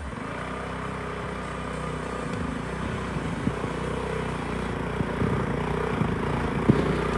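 Small single-cylinder trail-machine engine running steadily and slowly growing louder, with a few knocks and rattles over it.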